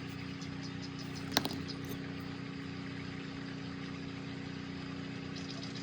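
Steady low background hum, even throughout, with a single light click about a second and a half in.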